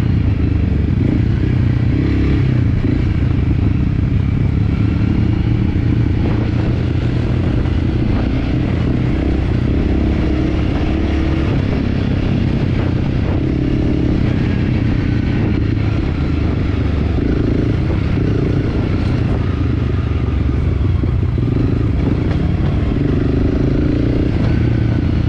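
Enduro motorcycle engine running steadily under way, with some clatter.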